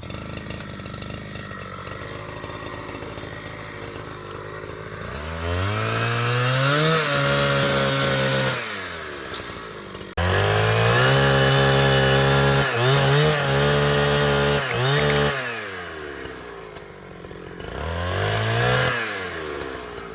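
Two-stroke chainsaw idling, then revved to high speed three times (about 5 s in, about 10 s in with brief dips, and near the end), falling back to idle each time.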